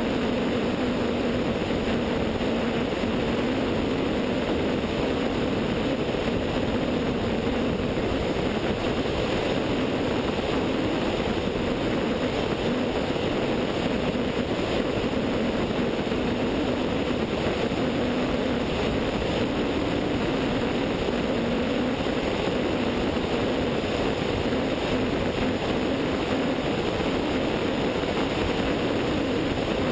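Light sport airplane's 100-hp Continental O-200 four-cylinder engine and propeller droning steadily in flight, mixed with wind rush, as picked up by a camera on the wingtip.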